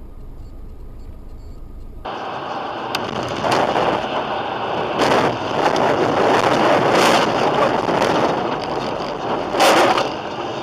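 Low in-car hum of a moving vehicle, cutting abruptly about two seconds in to loud rushing wind and road noise that swells several times.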